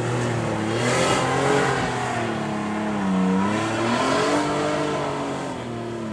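2005 Nissan Frontier pickup's engine revving up and down under load while climbing a steep dirt hill, with short bursts of hiss about a second in and again near four seconds.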